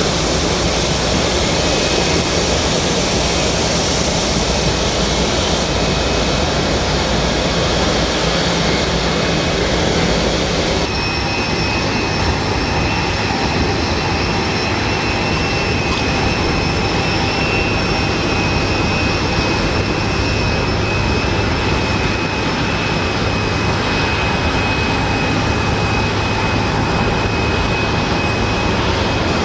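Jet airliner engines, a loud steady rushing noise. About a third of the way through it cuts abruptly to a second shot, in which a steady high-pitched turbine whine sits over the rush.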